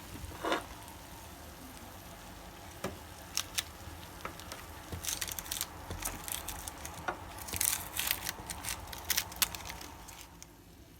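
Hot dish of baked potatoes being taken out of an oven: scattered clicks and knocks, with clusters of crackling from the hot food in the middle, over a steady hum that fades away near the end.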